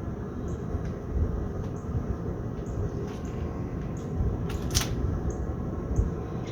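A steady low rumble, with faint regular ticks and one sharper click about five seconds in, as pork ribs are lifted off a smoker and laid down.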